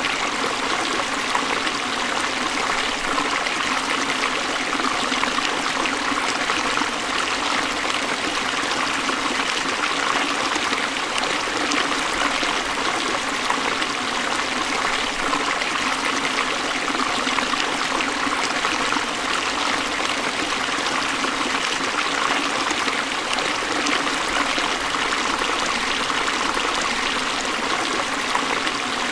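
Forest stream flowing and splashing over rocks, a steady rush of water.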